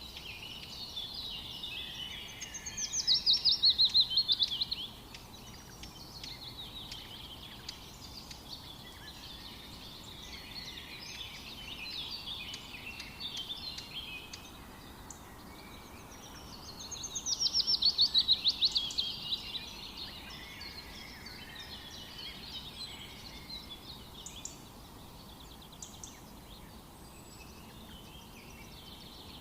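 Forest birdsong: several birds singing together, with two loud, fast trills of rapidly repeated notes, one a few seconds in and another about fifteen seconds later, over a soft steady background hiss.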